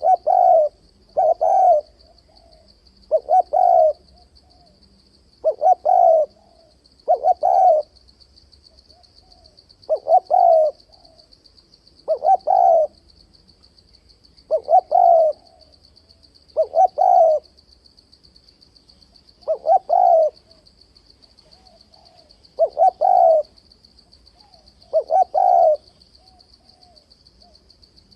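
Spotted dove cooing repeatedly: phrases of two or three low coos every two to three seconds, with varied phrasing. This is the challenge calling used to provoke rival doves for fight-trapping. A faint steady high buzz runs underneath.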